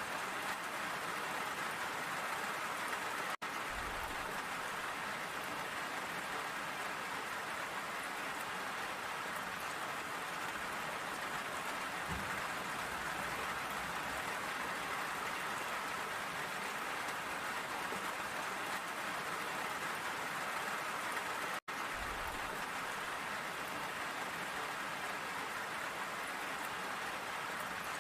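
Steady rain falling, an even hiss of drops on surfaces. The sound cuts out for an instant twice.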